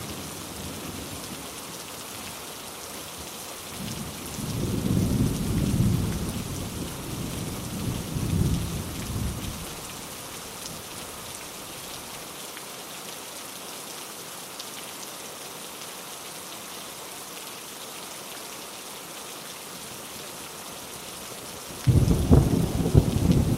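Steady rain with rolling thunder: a long rumble swells from about four seconds in and fades out before ten seconds, and a louder rumble starts suddenly near the end.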